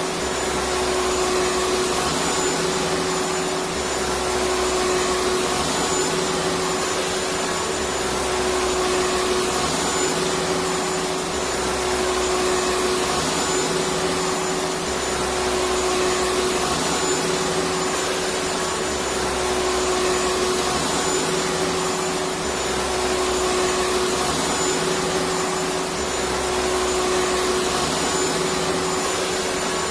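Electric vacuum cleaner running steadily: a continuous whooshing rush with a steady hum, and a low rumble that swells and fades every three or four seconds.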